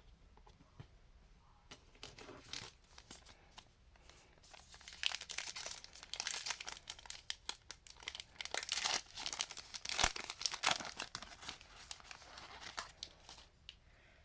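Plastic trading-card pack wrapper being torn open and crinkled by hand: a long run of crackling and crisp tearing, starting about two seconds in, busiest in the middle and tailing off near the end.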